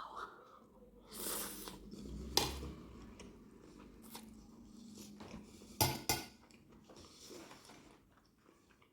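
Cutlery clinking and scraping against a plate during eating, with a few sharp clinks about two seconds in and again around six seconds.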